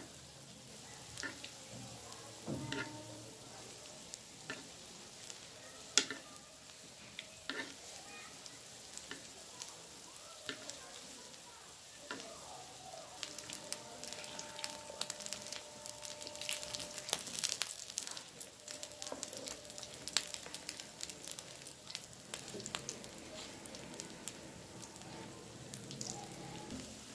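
Breadcrumb-coated potato kababs shallow-frying in mustard oil in a flat pan: a steady sizzle with fine crackling, which grows busier midway as they are turned. A few sharp taps of a metal spoon and fork against the pan.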